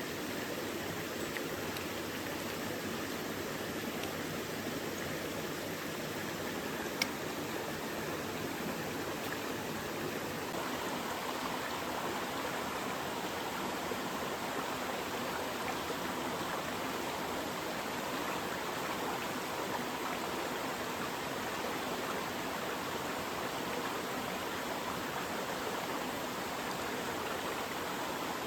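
Mountain stream running steadily, with one sharp click about seven seconds in.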